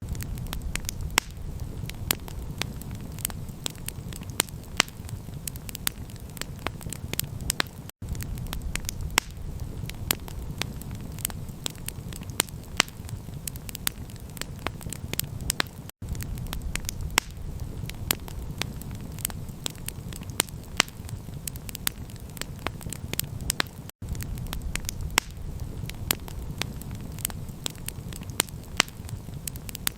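Campfire crackling, with many sharp pops and snaps over a steady low rumble. The sound drops out for an instant every eight seconds, where a short recording is looped.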